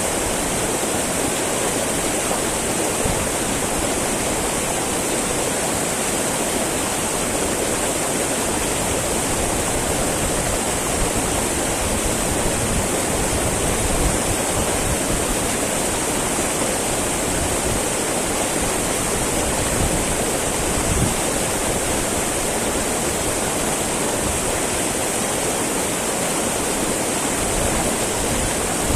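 Small mountain river babbling steadily over rocks, an even rush of flowing water with small irregular swells.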